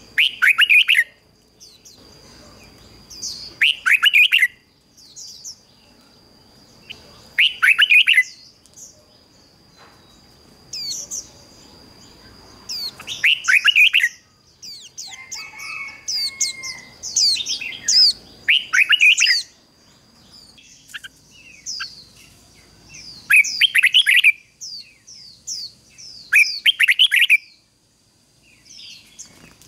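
Red-whiskered bulbul singing: short, loud, bright song phrases repeated every three to five seconds, with softer chirps in between. A faint, steady high tone runs underneath.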